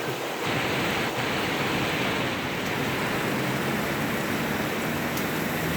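Heavy rain pouring down in big, heavy drops: a steady, dense hiss.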